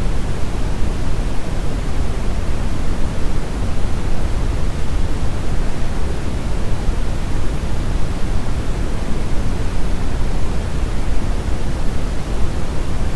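Brown noise: a steady, unchanging hiss weighted toward the low end, like a deep rumble.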